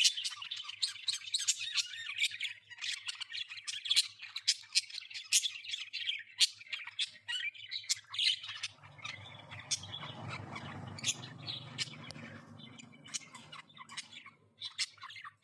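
A group of budgerigars chattering in rapid chirps and squawks. A low rumble joins in for about five seconds past the middle, and a faint steady hum lies underneath.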